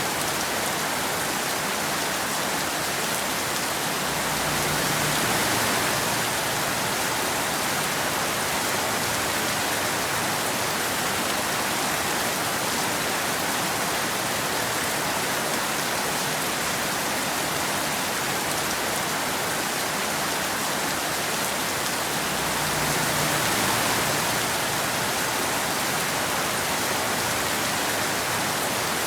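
Steady rain falling on a road, an even hiss that swells slightly twice, about a fifth of the way in and again near the end.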